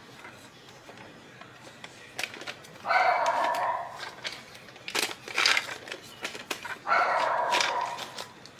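Toy dog giving two electronic barks, each about a second long, about 3 s and 7 s in, with a few short clicks around them.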